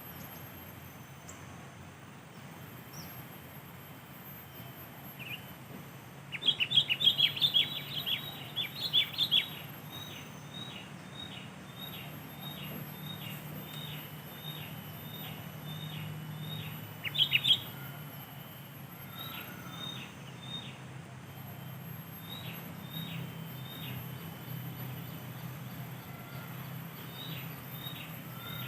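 Sooty-headed bulbuls calling: loud chattering bursts about six seconds in and again near the middle, with a run of short, evenly repeated down-slurred notes between and after them.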